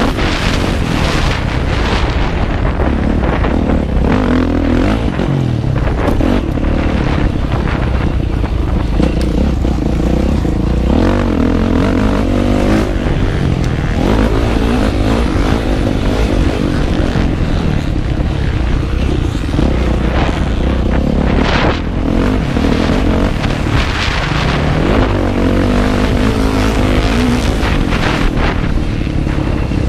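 Motocross motorcycle engine heard from on the bike, revving up and down as the rider works through the track, with rough noise from wind and the bike's jolts over the ground.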